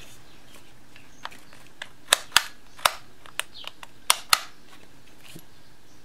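About ten sharp clicks and snaps from a Ryobi 18-volt cordless jigsaw being handled and its adjustable parts worked, the loudest coming in quick pairs about two and four seconds in.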